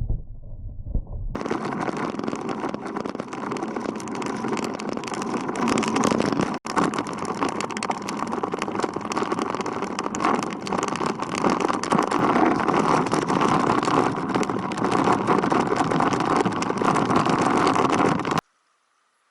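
Road traffic noise heard while riding: a steady wash of passing cars and engines, broken by one brief dropout about a third of the way through and cut off suddenly near the end.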